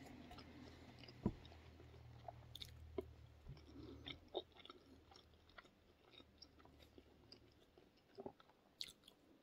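Faint chewing of a mouthful of sushi, with scattered small clicks and smacks of the mouth.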